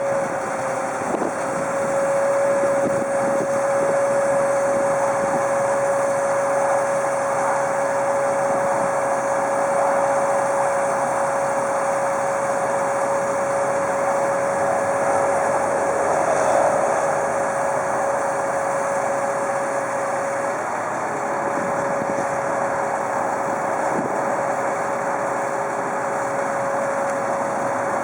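Freightliner FL70 bucket truck's diesel engine idling, with a steady whine held on one pitch.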